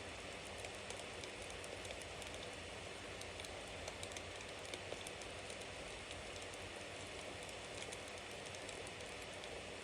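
Wood bonfire burning: a steady hiss with many small crackles and a few louder pops about four and five seconds in.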